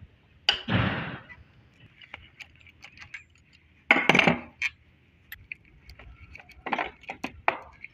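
Metal bolts and hand tools clinking and clattering as they are handled, in three louder bursts (about half a second in, around four seconds and near seven seconds) with scattered sharp clicks between.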